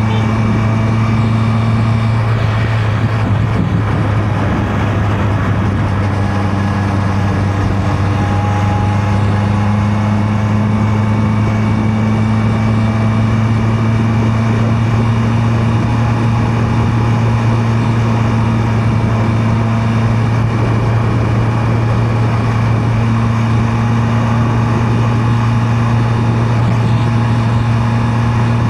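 Honda CB650R's inline-four engine running at a steady, nearly unchanging pitch while cruising, over a steady haze of wind and road noise.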